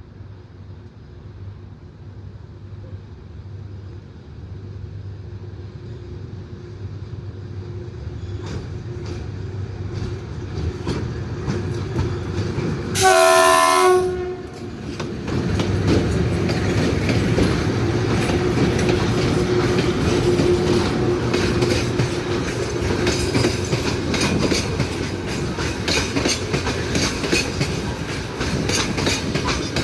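An electric locomotive train approaches with a rumble that grows louder. About 13 seconds in, it gives a short horn blast of about a second, a chord of several tones. It then passes close by, its wheels clattering rhythmically over the rail joints with a steady hum underneath.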